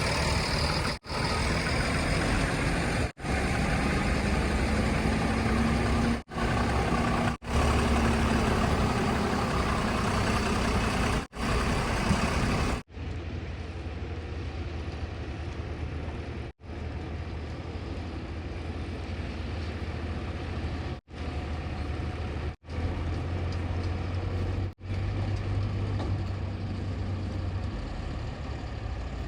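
Heavy diesel machinery running: the engines of a backhoe loader and tipper trucks give a steady low drone with no speech. The drone drops out briefly every few seconds, and its tone changes about halfway through.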